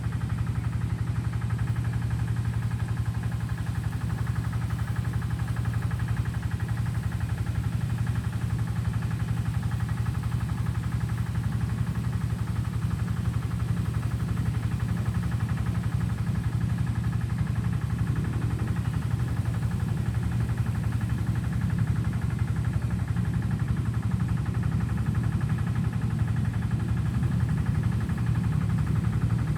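A motor running steadily at a constant idle, a low, even hum that doesn't change.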